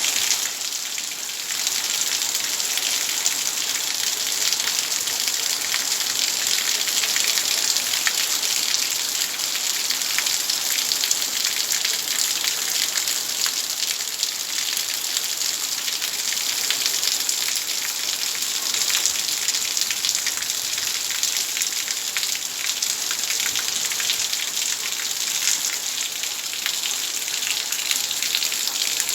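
Heavy rain falling steadily, a dense even hiss of countless drops striking surfaces, easing a little for about a second near the start.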